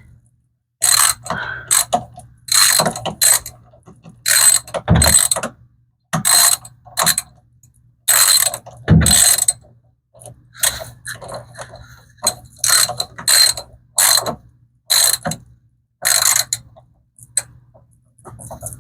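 Ratchet wrench tightening bolts on a washing machine: short runs of rapid ratchet clicking, roughly one a second, each lasting under a second, with brief pauses between them.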